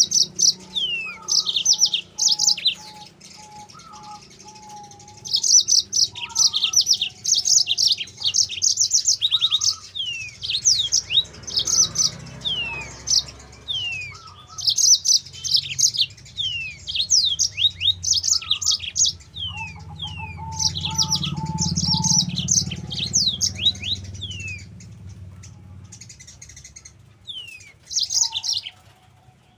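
Yellow-fronted canary (Mozambique canary) singing in long, rapid twittering phrases, with fast high chirps and quick falling slurs broken by short pauses. Lower runs of repeated notes are heard under it twice, and a low background rumble swells past the middle.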